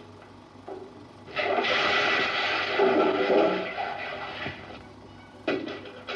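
A comedy sound effect on a Super 8 film's optical soundtrack: a loud rushing noise lasting about three seconds that fades away, then a short sharp hit near the end, over the soundtrack's hiss.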